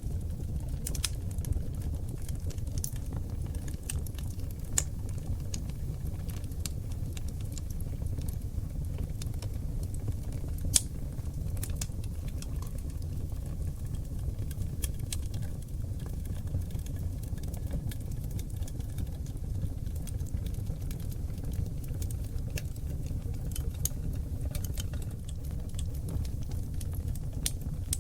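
Wood fire of seasoned oak logs burning in a fireplace: a steady low rumble of flame with irregular crackles and sharp pops, one loud pop about eleven seconds in.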